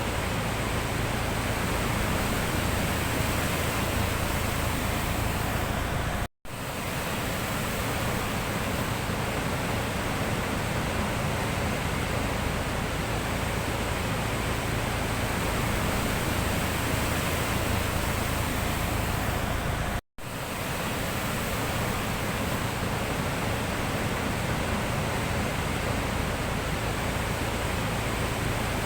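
Steady rush of sea surf, an even wash of water noise, that cuts out for an instant twice.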